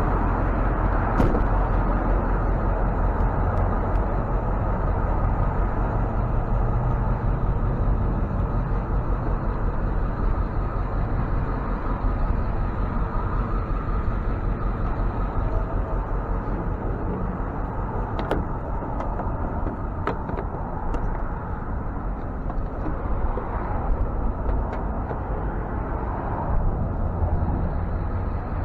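Tow truck running steadily, a continuous low engine and road rumble with a few faint clicks past the middle.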